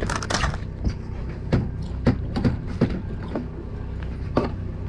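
A boat engine runs steadily underneath a string of sharp knocks and thumps on deck. The loudest knocks are a cluster right at the start, followed by about six more single ones.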